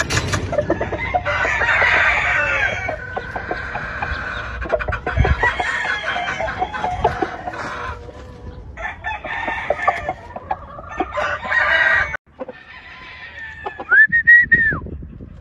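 Gamefowl roosters crowing and clucking, several calls overlapping, with one clear crow that rises, holds and falls near the end.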